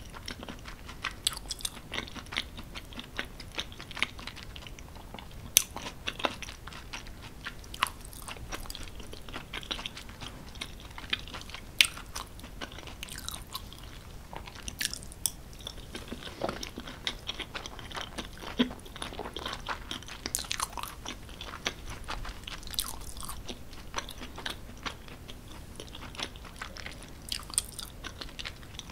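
Close-miked wet chewing of creamy cheese tortellini pasta with bacon and vegetables: a steady run of sharp, irregular mouth clicks and smacks.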